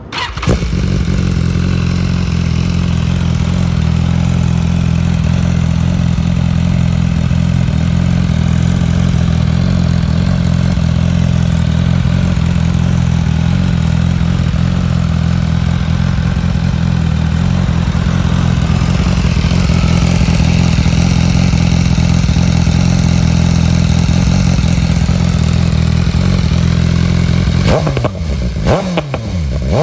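BMW S1000R's inline-four engine with Pro-Race GP-S1 shorty exhausts starting up and then idling steadily and loudly. Near the end the throttle is blipped a few times, the pitch rising and falling quickly.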